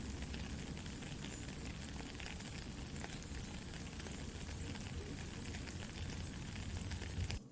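Soft rain falling steadily, mixed with the scattered pops and crackles of a campfire, over a low steady rumble.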